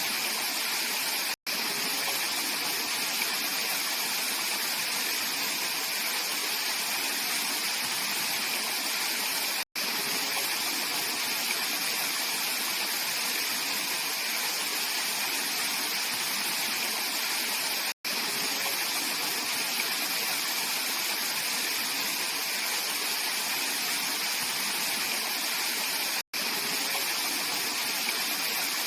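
Clear mountain stream rushing over rocks with a steady, even sound. Very brief silent gaps break it about every eight seconds.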